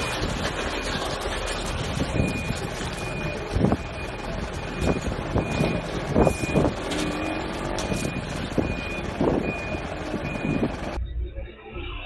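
Truck reversing alarm beeping about once a second over a running engine and vehicle noise, with a few knocks along the way; it cuts off about eleven seconds in.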